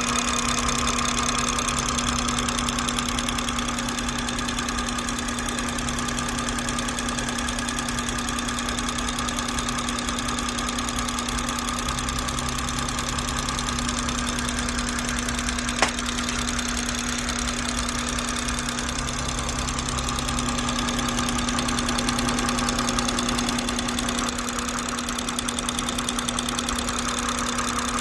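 BMW B58 turbocharged straight-six engine idling steadily with a loud, rapid, regular ticking. A single sharp click sounds a little past halfway.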